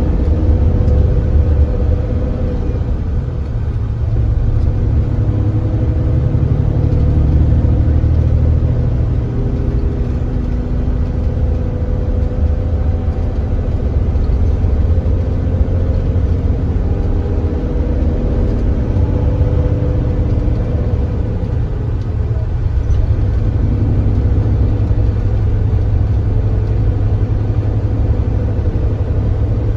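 Engine of a Kia Granbird Sunshine coach heard from on board, running steadily at cruising speed under a low road rumble, its pitch drifting up and down a little as speed changes.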